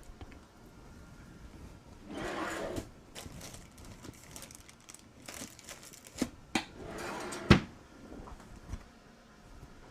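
Cardstock being handled on a craft table: a rustle of paper about two seconds in, then several light knocks and clicks as pieces and tools are set down, the sharpest about seven and a half seconds in.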